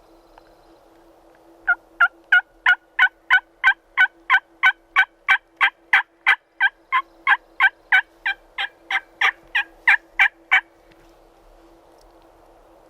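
A long, even series of loud turkey yelps, about three a second, starting about two seconds in and running for some nine seconds before stopping abruptly: the hen-yelp sequence used to call in a gobbler.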